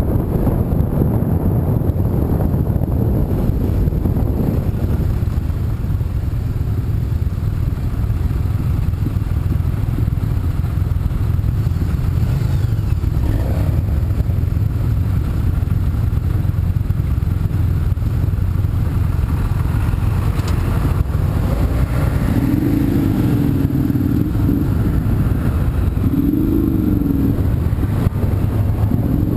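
Car on the move: a steady low rumble of engine and road noise, with a wavering pitched sound rising and falling twice near the end.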